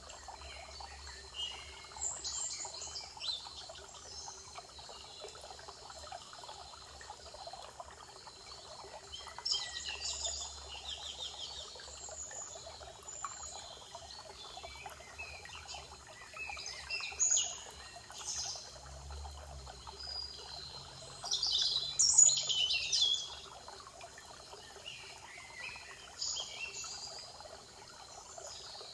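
Birds singing in short, separate phrases, the loudest a little past the middle, over a steady background rush like trickling water.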